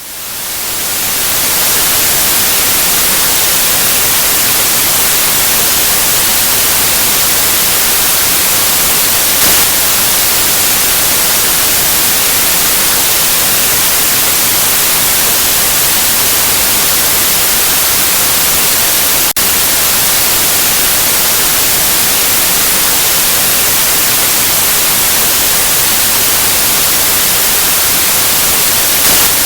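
Generated white noise: a steady, even hiss, strongest in the highs, fading in over the first second or two and then holding level.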